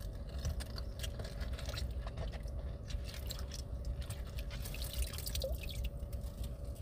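Water dripping and splashing in a small sink, with scattered light clicks. A faint steady hum runs underneath.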